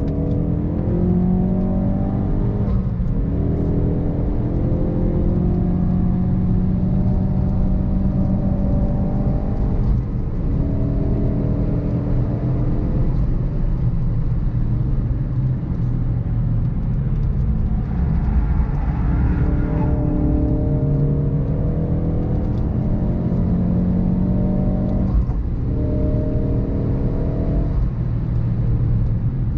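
Ford Focus RS Mk3's 2.3-litre turbocharged four-cylinder engine driven hard, its pitch climbing in repeated pulls, each broken off by a gear change or lift.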